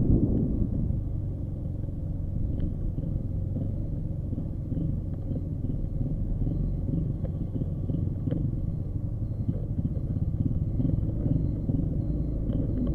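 Motorcycle engine running steadily, a low even hum.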